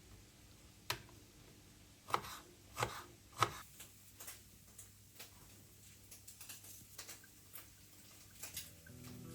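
Sparse clicks and soft knocks of objects being handled and set down, the three loudest between about two and three and a half seconds in. Gentle background music comes in near the end.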